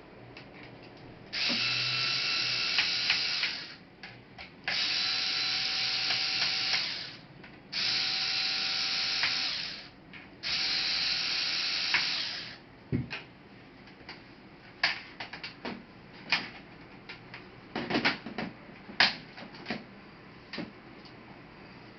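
Small electric screwdriver running in four bursts of about two seconds each, backing out laptop screws, followed by scattered light clicks and taps of parts being handled.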